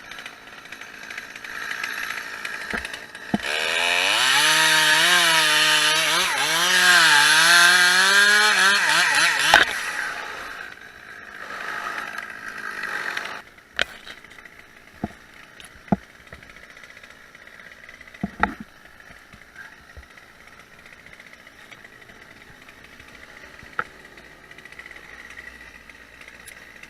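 Chainsaw running at full throttle for about six seconds, its pitch dipping and recovering again and again as the chain is loaded in a cut through the wood, then running quieter for a few seconds before it stops. Afterwards come a few scattered short knocks.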